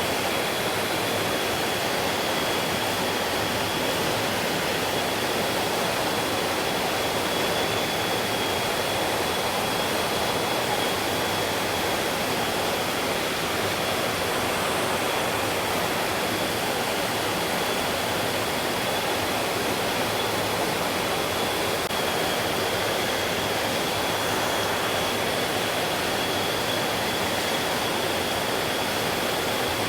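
Stream water rushing and flowing steadily, with a thin, steady high-pitched tone running under it.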